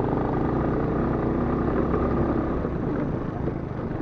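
Motor scooter engine running steadily while riding, with a pillion passenger aboard.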